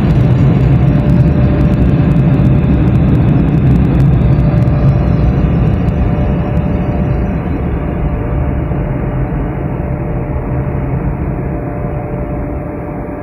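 Automatic car wash machinery heard from inside the car: a loud, steady rushing noise with a faint steady hum, with light pattering clicks at first, easing down over the second half as the wash winds down.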